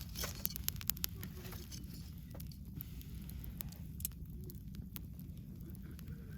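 Wood bonfire burning, with sharp crackles and pops over a steady low rumble; a quick run of pops comes in the first second and a louder one about four seconds in.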